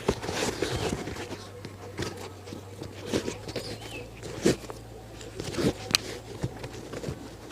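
Shoe-shining work sounds: irregular brush strokes and light taps on a shoe, over a low steady hum.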